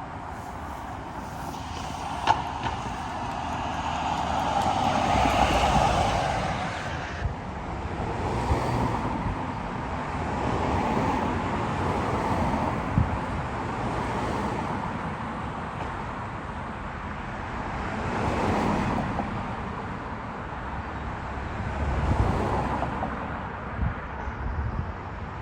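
Road traffic: several vehicles pass one after another, each swelling and fading. The loudest passes about five seconds in, and there are a couple of short sharp ticks along the way.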